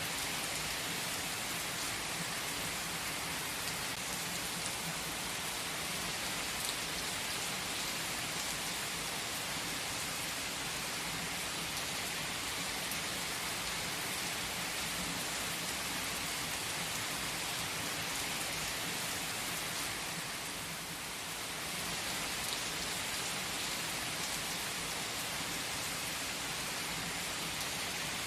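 Steady rainfall, an even hiss with no music, dipping slightly about three-quarters of the way through.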